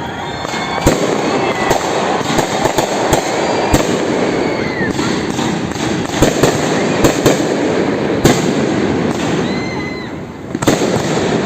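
Fireworks going off continuously: many overlapping bangs and crackling bursts, with a brief lull about ten seconds in.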